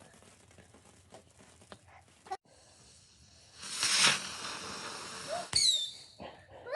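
Fireworks: a hissing spray that lasts about two seconds, then a sharp crack with a short falling whistle.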